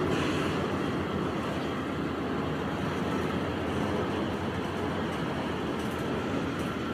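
A long freight train's cars rolling past, a steady rumble of wheels on the rails.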